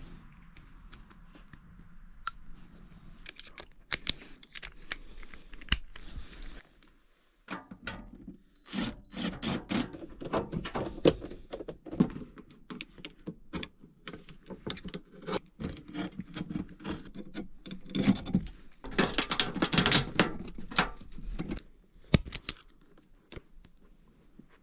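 Hand work on electrical wiring: a run of small clicks, taps and rattles from tools and parts being handled, with a denser rasping burst about 19 seconds in.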